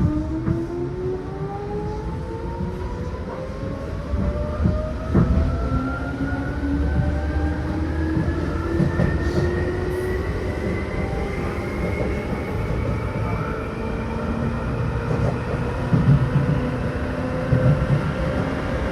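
Seibu New 2000 series electric train running, heard from inside the car: the traction motor and gear whine rises slowly and steadily in pitch as the train gathers speed, over the low rumble of the wheels on the rails with occasional knocks.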